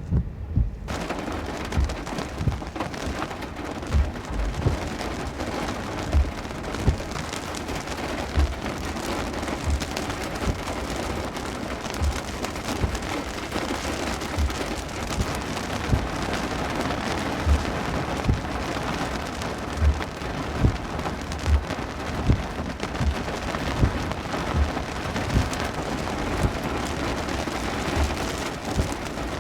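Heavy rain pouring down in a steady downpour that starts about a second in, with repeated low thumps throughout.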